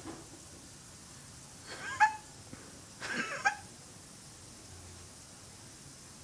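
A cat making two short meow-like calls about a second apart in its sleep, each ending on a falling note.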